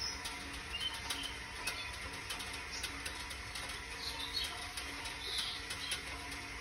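A few short high bird chirps over a faint steady hum, with light scattered ticking.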